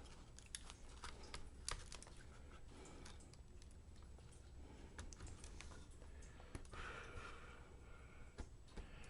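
Faint, irregular light clicks and taps of small plastic laptop parts and cables being handled and set in place during reassembly.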